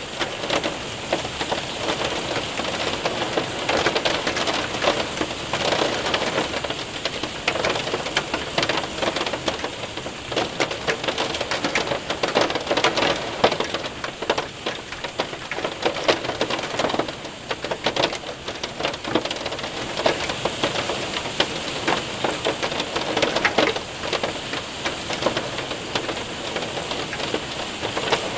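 Hail and heavy rain pelting a window and roof: a dense patter of many small hits, swelling and easing in waves.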